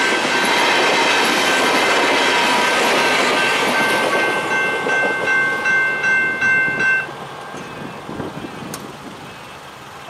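V/Line VLocity diesel multiple unit passing over a level crossing, its wheels and engines loud, with the crossing's General Signals Type 2 electronic bells ringing over it. About seven seconds in the bells stop and the train noise falls away as the train clears the crossing.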